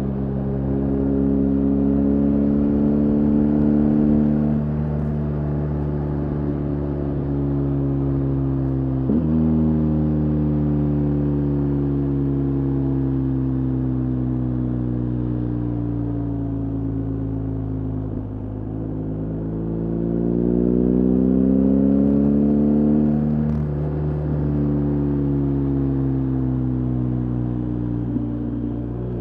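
BMW R 1250 GS Adventure's boxer-twin engine, ridden on the road. The engine note drops suddenly about nine seconds in, falls slowly for several seconds, climbs again from about eighteen seconds as the bike speeds up, and drops suddenly once more near the twenty-three second mark.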